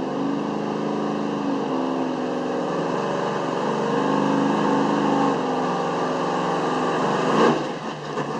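Big-block V8 street truck engine running hard at high, fairly steady revs under load as it pulls the sled, its pitch wavering slightly, then dropping away near the end as it lets off.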